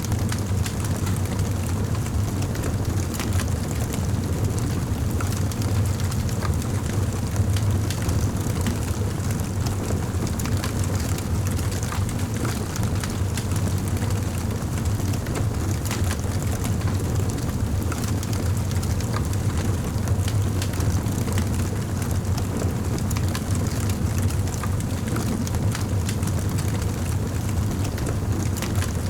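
Wood fire burning in a fireplace: a steady low rumble of the flames with frequent small crackles and pops throughout.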